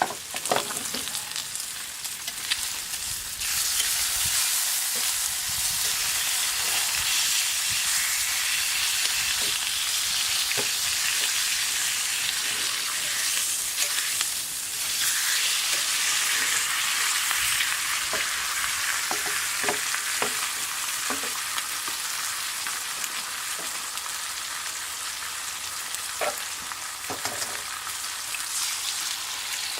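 Bacon and eggs sizzling in a frying pan over a campfire, a steady hiss with scattered pops and crackles; the sizzle grows louder about three and a half seconds in.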